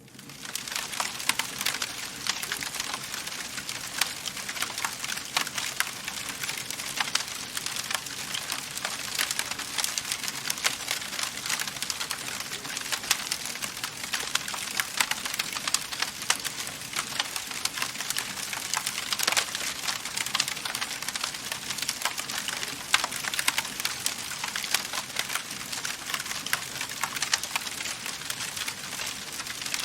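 Wood fire crackling in a fireplace: a steady hiss of burning logs with many small, irregular pops and snaps.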